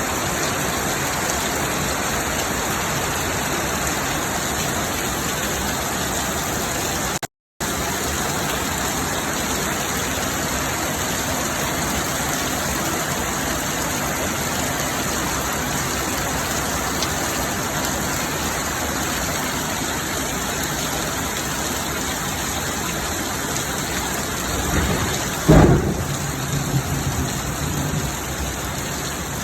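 Heavy rain pouring steadily during a summer thunderstorm, with a sudden thunderclap near the end that rumbles on for a couple of seconds. The sound cuts out completely for a moment about a quarter of the way in.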